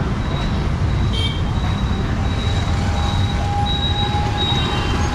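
Busy street traffic noise: a steady low rumble of vehicles, with a short high-pitched beep about a second in.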